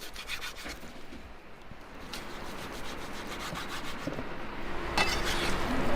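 Rough rubbing and scraping strokes, quick and repeated at first, then growing louder, with a stronger scrape near the end.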